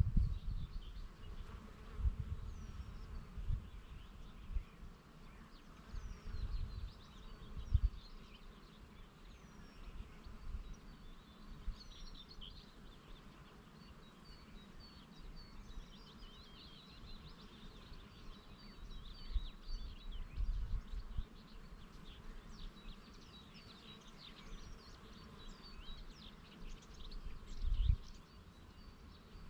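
Bees buzzing, with small birds chirping in many short high notes throughout and low gusts of wind on the microphone every few seconds.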